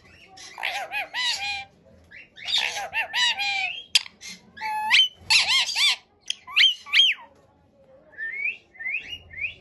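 Ringneck parrot calling in about five bursts of warbling, rising-and-falling calls, followed by softer short chirps near the end.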